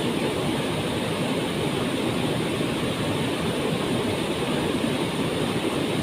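Waterfall: water falling and crashing into its plunge pool in a steady, unbroken roar.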